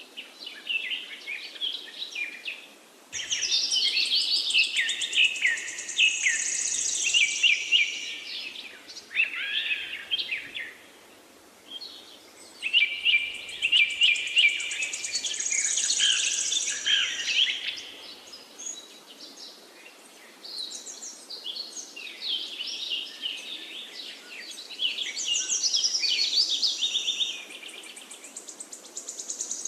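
Songbirds singing in a forest: overlapping chirps and trills, including a high trill, come in bouts of several seconds with short lulls between them, over a faint steady background hiss.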